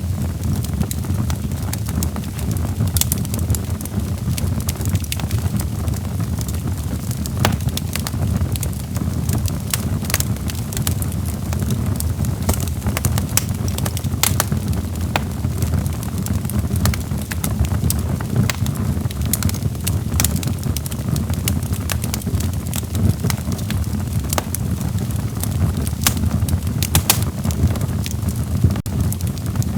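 Log fire burning in a fireplace, crackling with frequent sharp, irregular pops and snaps over a steady low rumble.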